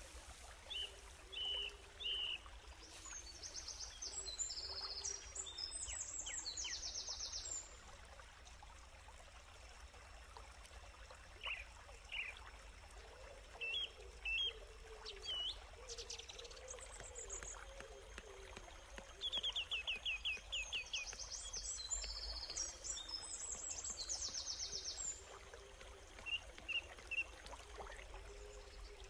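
Birds calling: scattered short, high chirps and two long stretches of rapid, high trilling, over a steady faint background hiss.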